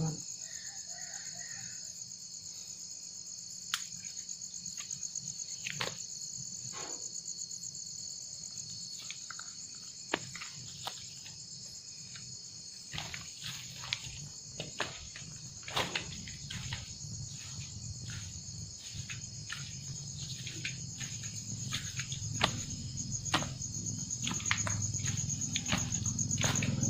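Night insects, crickets, chirring steadily in a high continuous drone, with scattered short clicks and knocks throughout and a low rumble building near the end.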